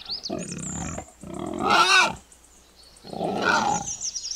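Wild boar grunting in three bouts, the middle one loudest, with birds chirping faintly in the background.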